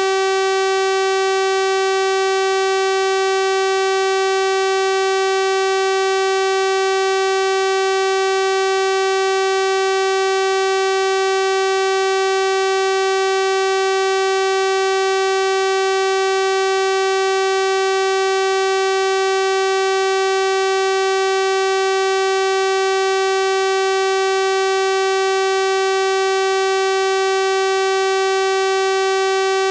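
Synthesized 384 Hz sawtooth-wave tone held steady, a bright buzzy pitch rich in harmonics.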